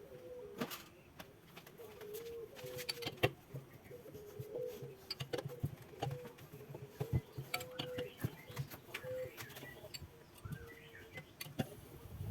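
Repeated short bird calls at one steady mid pitch, with scattered light clicks and taps.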